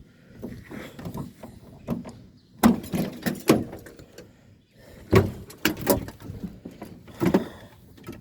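Clanks, knocks and rattles of hand tools and metal parts being handled while the worn contacts on an air-conditioning unit are replaced: a cluster about two and a half seconds in, another around five seconds, and a last clank near the end.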